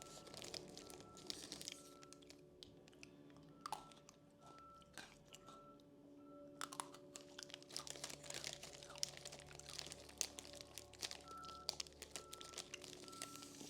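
Crunching and chewing of chocolate-banana Pocky biscuit sticks: many quiet, irregular crisp snaps, with some wrapper crinkling, over soft background music.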